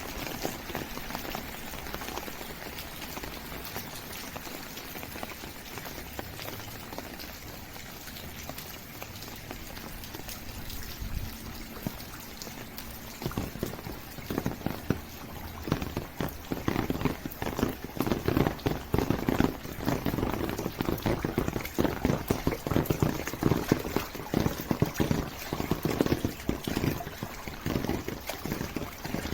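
Steady rain falling, joined about halfway through by a dense, irregular patter of knocks that grows louder.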